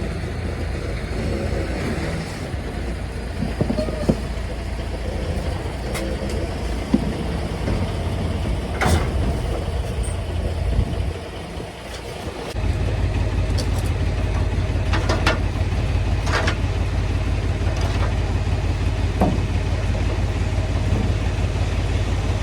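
Semi-truck diesel engine running with a steady low rumble and scattered light clicks and knocks. The rumble dips briefly a little past halfway, then comes back suddenly louder and stays steady.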